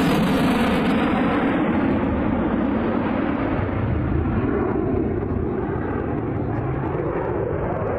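Jet noise from an F-22 Raptor's twin turbofan engines in flight, a loud, steady rush whose hiss dies away after about two seconds, leaving a lower rumble as the jet draws away.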